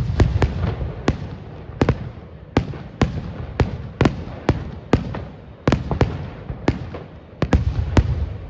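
Aerial fireworks bursting in quick succession, about two sharp bangs a second over a continuous low rumble of echoing booms.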